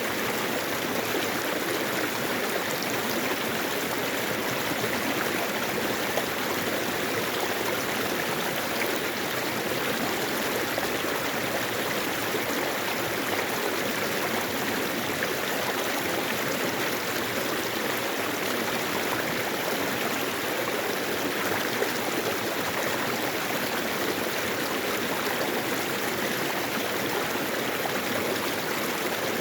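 Mountain valley stream running over rocks, a steady rush of water with no change.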